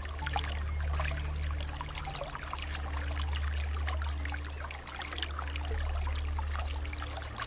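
Running water trickling and bubbling in a dense, irregular patter, over a low steady drone that shifts pitch now and then.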